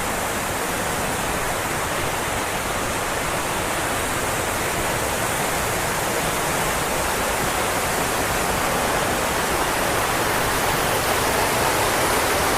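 Waterfall rushing close by: a steady roar of falling water that grows slowly louder.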